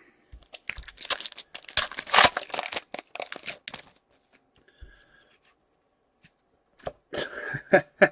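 Foil wrapper of a 2017-18 Upper Deck Series 1 hockey card pack being torn open and crinkled, a rough crackling rip running from about half a second to four seconds in.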